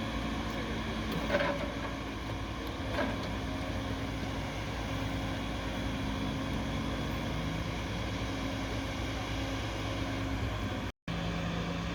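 Engine running at a steady low drone, with a brief cutout about a second before the end.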